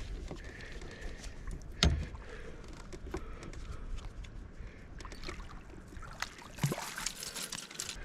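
Knocks and scrapes against a kayak hull while a small trout is brought aboard and netted, with one loud thump about two seconds in and a short burst of noise near the end.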